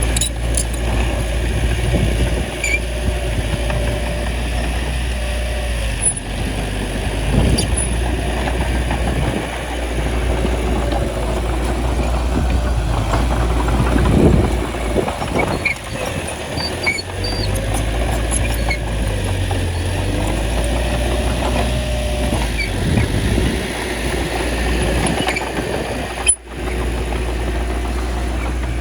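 Bulldozer diesel engine running steadily, its pitch rising and falling a little, with a few short knocks and clanks.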